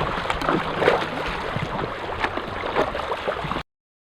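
Water lapping and splashing, with wind noise on the microphone, that cuts off abruptly about three and a half seconds in.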